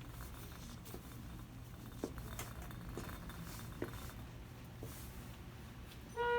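Shop background ambience: a steady low hum with scattered light clicks and taps about once a second. A steady electronic tone starts just before the end.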